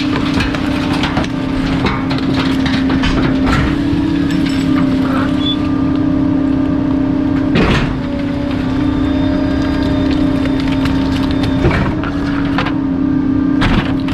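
Bulky-waste garbage truck's compactor running with a steady, non-stop hum while irregular cracks and knocks come from items being crushed, the sharpest crack a little past halfway.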